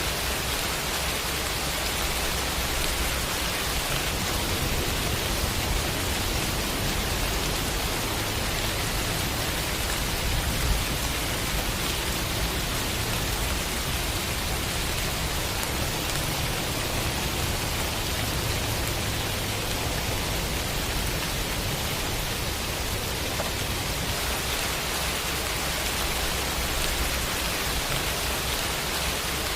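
Steady rain sound effect: an even hiss of rainfall with a low rumble underneath, continuous and unchanging.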